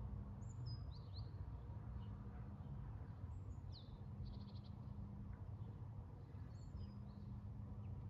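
Small songbird singing short, high, falling phrases three times, with a quick run of rapid notes in the middle, over a steady low background rumble.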